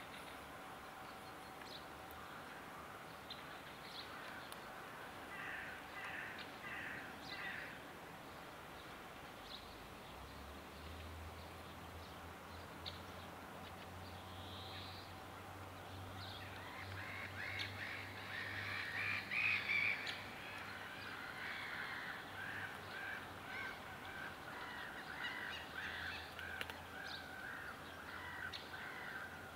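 Birds calling in runs of short repeated notes, busiest and loudest a little past the middle. A steady low hum sets in about a third of the way through.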